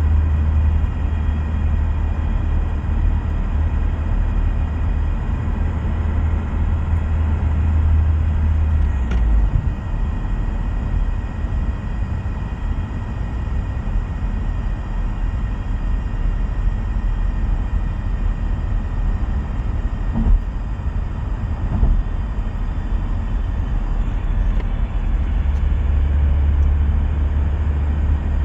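A car with an M32 six-speed manual gearbox driving at road speed, showing a noise problem: a strong low drone that drops away about nine seconds in and comes back near the end, over steady road noise and a faint high whine.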